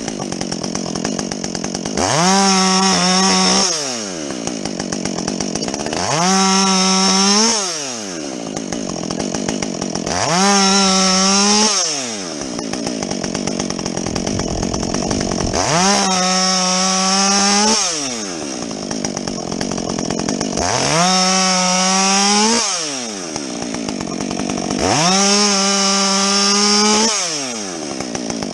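Husqvarna 562XP two-stroke chainsaw with a modified, opened-up muffler, bucking a felled tree. The engine rises to a high, steady full-throttle pitch about six times, roughly every four seconds, and drops back between into a lower, rougher sound.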